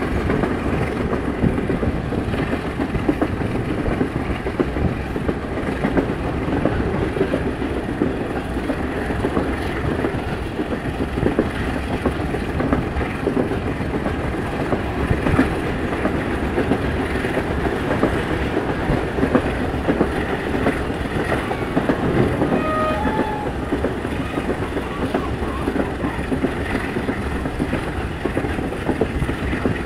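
Passenger train carriage running along the track, heard at an open window: a steady rumbling rattle with the continual clatter of wheels over rail joints. A brief tone sounds about two-thirds of the way through.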